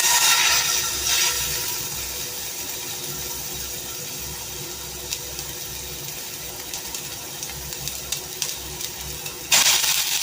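Chicken seekh kebabs sizzling in hot oil in a frying pan, loud right after they go in and settling to a steady sizzle with scattered small pops; the sizzle jumps louder again near the end.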